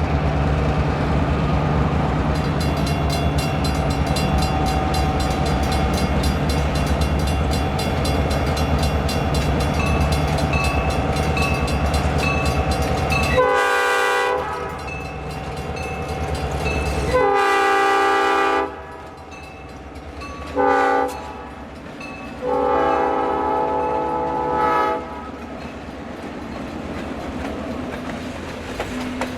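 Diesel freight locomotives running past with a heavy engine rumble and wheels clicking over the rail. Then the multi-chime horn sounds four blasts, long, long, short, long, the grade-crossing signal.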